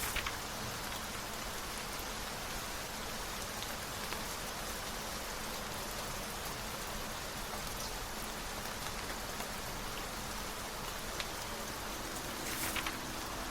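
Steady rain falling, an even hiss with scattered drop ticks. A brief, slightly louder rustle comes about a second before the end.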